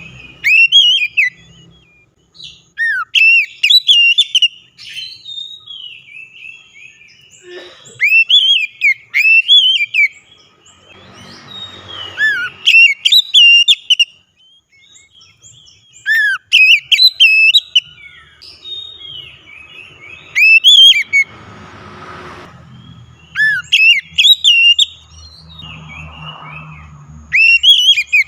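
Oriental magpie-robin singing loud, varied whistled phrases in repeated bursts every few seconds, with quick up-and-down slurred notes.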